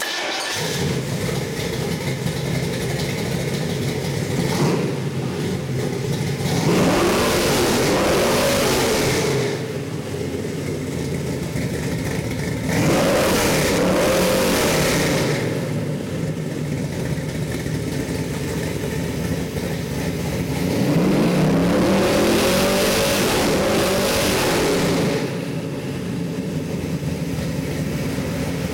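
Chevrolet 454 big-block V8 crate engine with a roller cam, running on an engine test stand: it fires up at the start and idles, then is revved several times, one short blip and three longer revs held for two to three seconds each, dropping back to idle in between.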